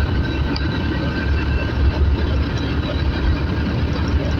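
Motorcycle on the move: a steady rush of wind buffeting the microphone over the engine and road noise, with a faint steady whine above it.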